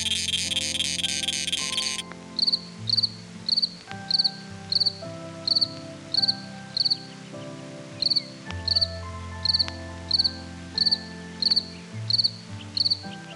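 A dense, rapid insect buzz cuts off about two seconds in. It is followed by a cricket chirping steadily, short high chirps about one and a half times a second. Soft sustained background music notes run underneath.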